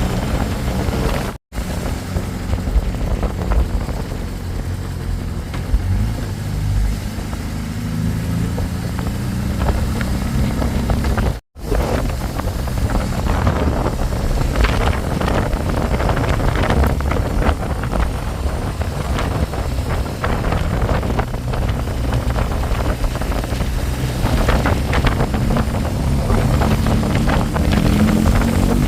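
Motorcycle engine running on the move, with wind buffeting the microphone. The engine's pitch drifts up and down and climbs near the end. The sound cuts out abruptly for a moment twice, about a second and a half in and again about eleven seconds in.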